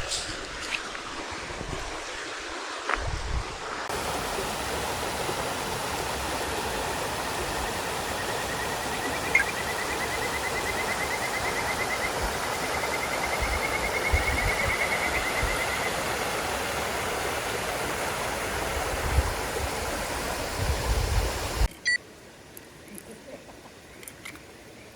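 Steady rushing noise of flowing water, like a stream, which gets louder about four seconds in and drops away sharply near the end.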